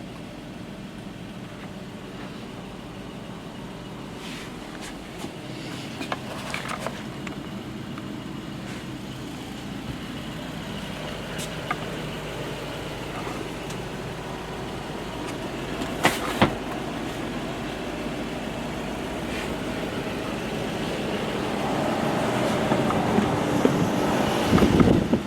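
Blue Bird Micro Bird bus engine idling steadily, with a few sharp clicks and knocks; the running noise grows louder near the end.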